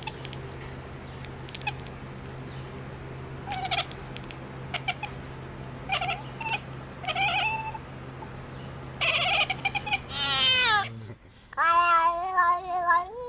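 A cat meowing: a few short chirping calls, then a loud meow that falls in pitch and a long, wavering yowl near the end. A steady low hum runs underneath and stops just before the last yowl.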